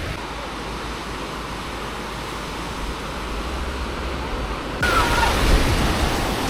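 Sea surf washing on a beach as a steady rush. It turns suddenly louder and brighter about five seconds in, with one short chirp just after.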